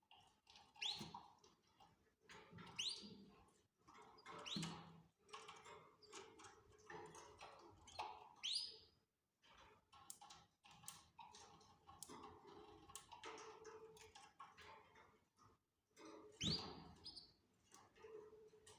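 Canaries in a breeding cage giving short, fast-rising chirps every few seconds, over faint clicking and rustling.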